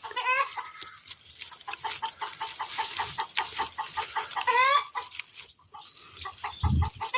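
Bird nestlings calling repeatedly as one is lifted from the nest burrow: short calls several times a second, with a few longer calls near the start, in the middle and at the end. These are distress calls from chicks that are upset at being handled.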